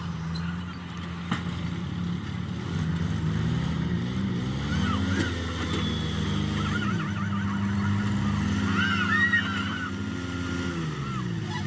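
A diesel tractor engine revved up and down twice, the engine note climbing, easing off and climbing again before dropping back, as the machine works to get free of mud.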